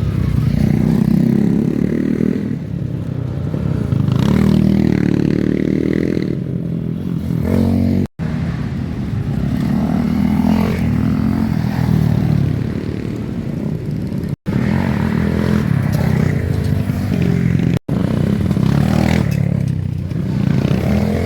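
Motocross dirt bike engines revving up and down, the pitch climbing and falling as the throttle opens and closes. The sound drops out abruptly three times, about 8, 14 and 18 seconds in.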